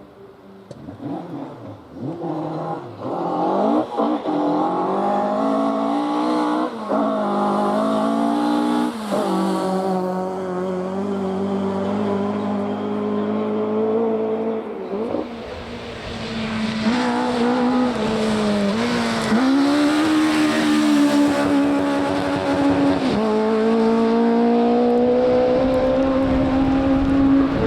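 Rally car engine revving hard through repeated rises and drops in pitch as it shifts gears. It grows louder and rougher in the second half as it comes close.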